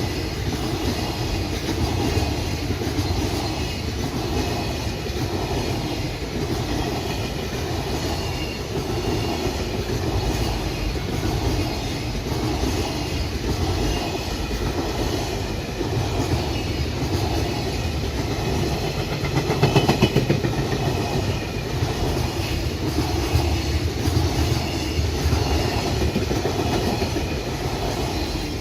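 Freight train running past, its wagons' wheels clacking over the rail joints in a steady rhythm of about one knock a second.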